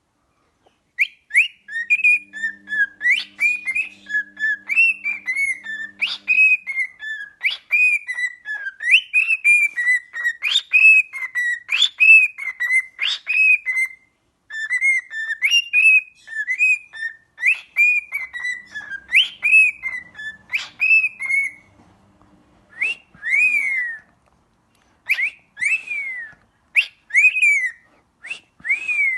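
Pet bird whistling a long run of short, clear notes, each sliding up or down in pitch, broken by a couple of short pauses.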